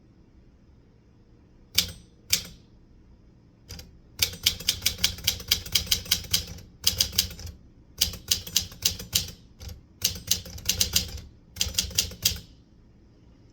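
Typewriter typing: two single key strikes, then quick runs of keystrokes in bursts with short pauses between them.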